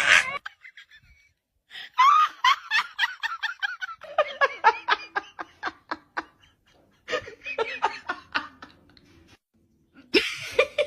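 A person laughing hard in three long bouts of rapid, pulsing ha-ha sounds, about four to five a second, with short pauses between the bouts.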